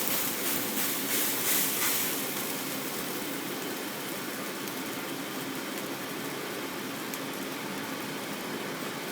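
Grease crackling and sizzling in a burning toaster oven for about the first two seconds, then settling into a steady rushing hiss.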